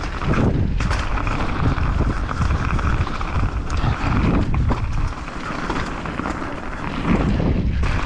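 Wind buffeting an action camera's microphone as a mountain bike descends a wet, rough downhill trail, with the bike rattling and several sharp knocks from bumps.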